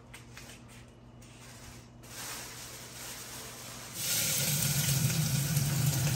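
A faint low hum for the first few seconds. About four seconds in, a loud, steady sizzle starts suddenly as chopped onion and greens go into a hot pan to fry, over a steady low hum.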